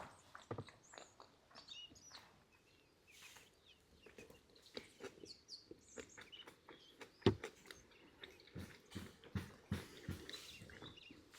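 Scattered small knocks and clicks, with stronger low thumps in the second half, and a few brief bird chirps in the first couple of seconds.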